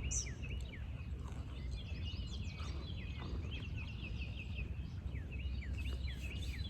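Small songbirds chirping and twittering, many short quick chirps overlapping, over a low steady background rumble.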